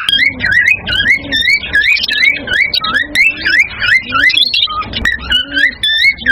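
Cockatiels calling in a fast run of shrill, whistled chirps, about three a second, each note sliding up and then down in pitch. A fainter, lower arching tone repeats underneath.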